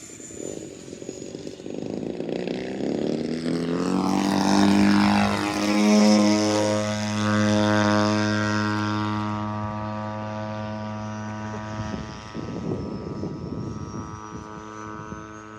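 Propeller-driven RC model airplane flying past: a buzzing engine that grows louder, drops in pitch as it passes about six seconds in, then fades away. Gusts of wind noise come near the start and again in the last few seconds.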